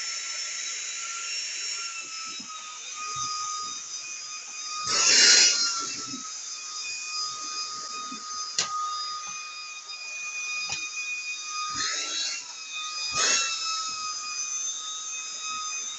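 Autobot VX cordless handheld vacuum running with a high steady whine as its nozzle works over a fabric cushion. The pitch rises briefly with a loud rush of air about five seconds in and twice more near the end. A single sharp click falls about halfway.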